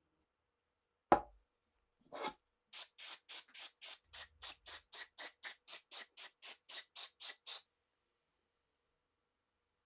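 A single sharp click, then a short scrape and a run of about eighteen quick, even rubbing strokes, roughly four a second, that stop abruptly.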